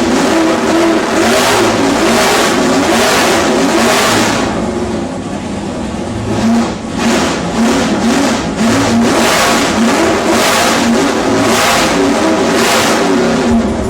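572 cubic-inch big-block Chevrolet V8 running loud on an engine dyno, surging in revs about once a second.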